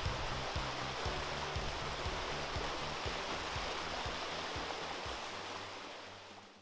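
Steady rushing water, with low music notes and a regular soft beat underneath; it all fades out near the end.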